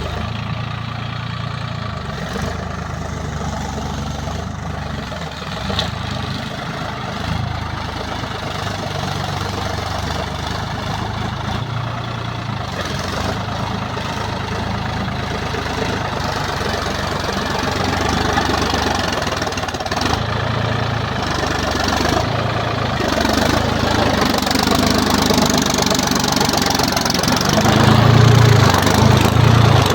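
Sonalika Tiger DI 50 tractor's diesel engine running while ploughing, gradually growing louder over the second half and loudest near the end.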